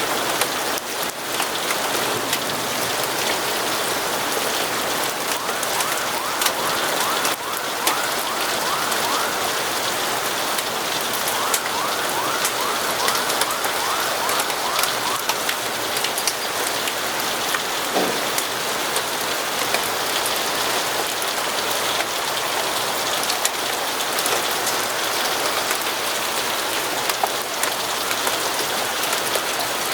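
Steady, heavy rain falling on windows and surfaces, with many scattered sharp ticks through it. A brief faint rising tone sounds partway through.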